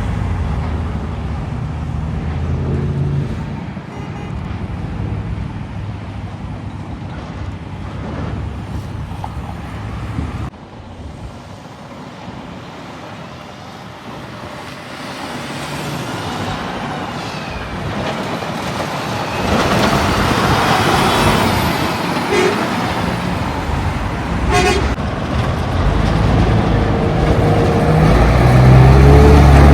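Road traffic with heavy trucks passing, including a short horn toot about three-quarters of the way through. A loud, low truck engine comes up close near the end.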